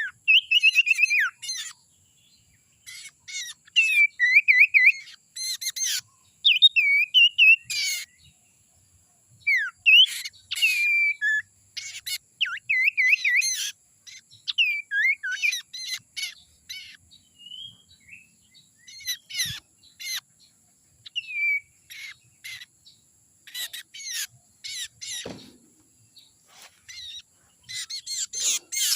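Sirtu bird song used as a lure call: phrases of quick chirps and rapid up-and-down trilled whistles, each lasting a second or two with short pauses between.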